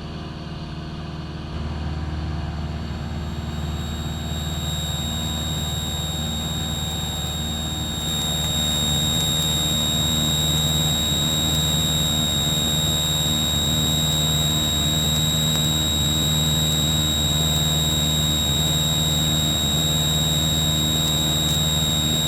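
Cessna 172 Skyhawk's piston engine and propeller droning steadily in cruise, heard from inside the cockpit, with a thin steady high whine over it. The drone gets a little louder about a second and a half in and again around eight seconds.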